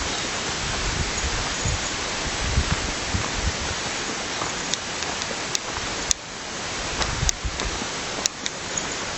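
Running stream water, a steady rushing hiss, with a few sharp clicks in the second half.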